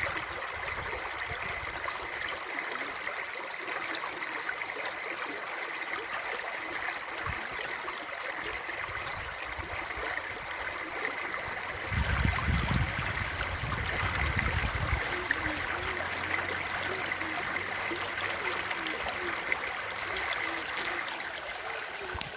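Running water flowing steadily, with a low rumble added for about three seconds midway.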